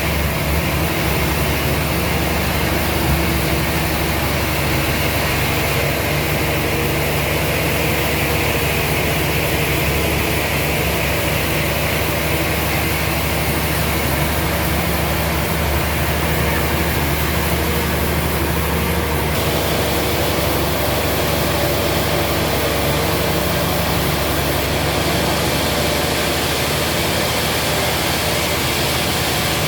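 Sawmill machinery running steadily, a loud mechanical drone with an engine-like hum underneath. Its tone shifts abruptly about two-thirds of the way through.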